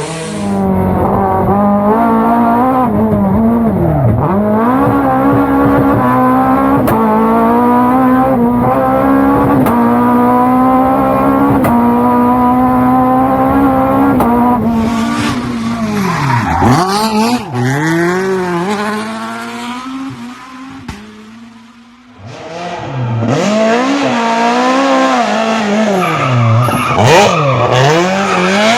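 Fiat 131 Abarth rally car's engine running hard at high revs, with sharp dips and recoveries in pitch from gear changes and lifts off the throttle. About 19 seconds in it falls away to a quieter low for a couple of seconds, then accelerates hard again with more quick dips.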